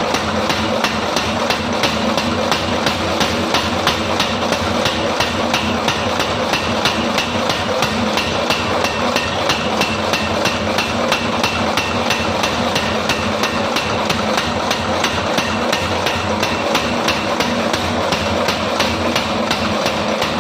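Mechanical power hammer striking an axe head in a rapid, even rhythm of blows, several a second, over the steady hum of the running machine.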